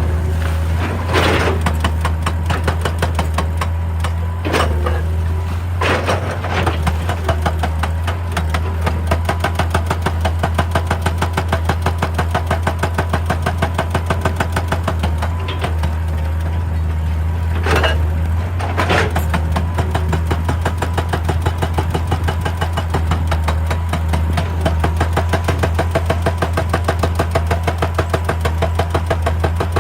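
Excavator's diesel engine running steadily, with several sharp knocks of the bucket or rock, two of them close together just past halfway.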